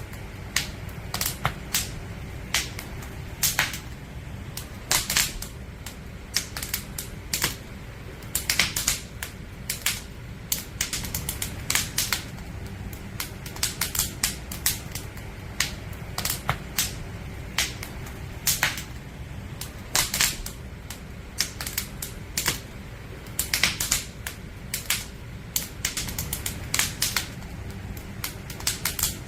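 Wood fire crackling: irregular sharp pops and snaps from the burning logs, coming in clusters, over a steady low rumble.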